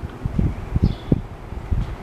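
12-inch Eastern Electric box fan running on its low speed, its airflow buffeting the microphone in irregular low rumbles that grow stronger about half a second in.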